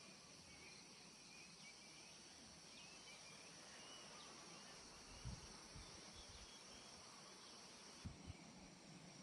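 Near silence: a faint steady insect hum with a few faint bird chirps, and two soft low thumps about five and eight seconds in.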